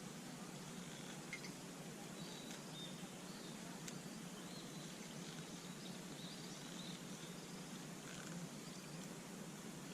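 Faint, steady outdoor background hiss with a few soft, high bird chirps scattered through it and occasional light clicks.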